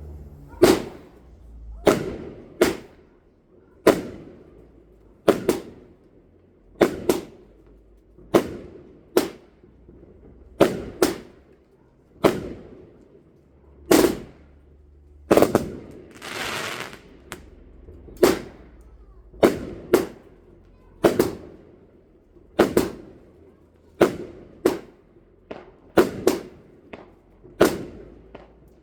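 Fireworks going off: a steady string of sharp bangs, roughly one a second and some in quick pairs, each with an echoing tail. About halfway through comes a longer hissing crackle.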